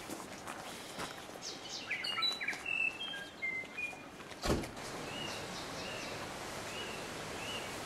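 Small birds chirping: a scatter of quick high calls, then one short call repeated four times at even spacing, over a steady background hiss. A single brief knock about halfway through.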